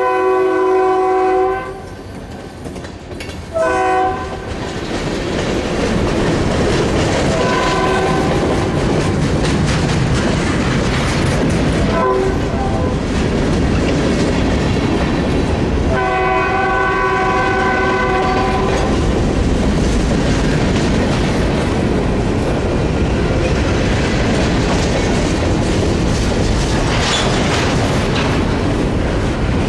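Freight train locomotive air horn sounding several blasts over a passing train. There is a long blast at the start, a short one about four seconds in and a long one around sixteen seconds in. The passing cars make a steady rumble and clatter on the rails.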